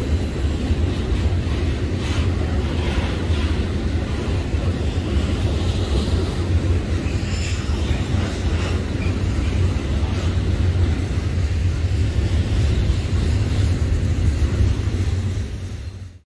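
Double-stack intermodal freight train rolling past: a steady low rumble of the container well cars' wheels on the rails, fading out quickly near the end.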